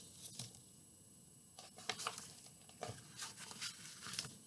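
Faint paper rustling and soft taps, a handful of brief crackles spread across a few seconds, as a picture book is handled and its pages turned.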